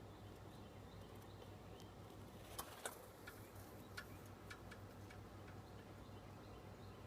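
A scatter of faint, sharp clicks or taps, about seven over two and a half seconds in the middle, over a low steady hum.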